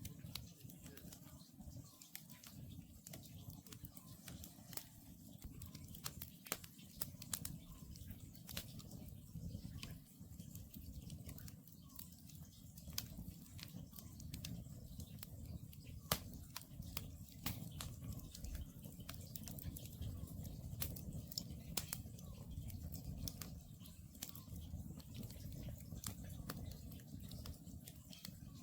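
Wood campfire crackling, with many small sharp pops and snaps at irregular intervals over a low steady rumble of the flames; one louder pop about sixteen seconds in.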